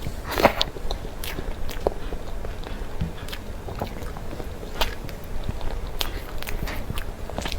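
Close-miked chewing of a soft cream dessert: irregular wet mouth clicks and smacks, with louder ones about half a second in and again near the middle.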